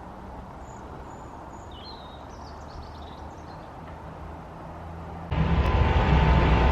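A steady, low, distant engine drone with a few birds chirping over it. About five seconds in, the sound jumps suddenly to a much louder, closer rumble.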